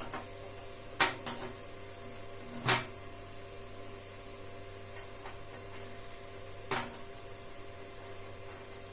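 A few short sharp knocks, four in all, with two close together about a second in, one near three seconds and one near seven, over a steady background hum.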